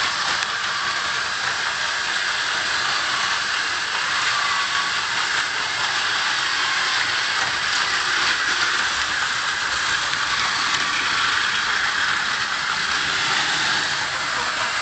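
Battery-powered Plarail toy trains running on plastic track: a steady, high whir of small motors and gears.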